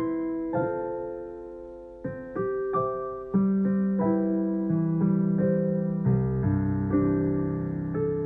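Background piano music: single notes and chords played at a gentle pace, with deeper bass notes coming in about six seconds in.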